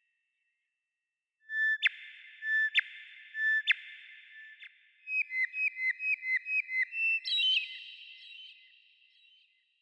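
A songbird singing one clear whistled phrase after a short silence: four spaced ringing notes, then a quick run of about ten short down-slurred notes, ending on a higher note that fades away with an echo.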